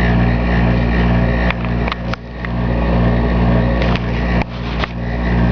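Air conditioner running with a loud, steady droning hum, broken by several sharp clicks and sudden brief drops in level around the middle and near the end: the odd, faulty-sounding noise the unit is making.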